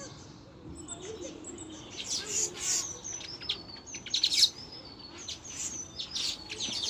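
Parrots calling: a run of short, high chirps and squawks that starts about two seconds in and grows loudest around the middle.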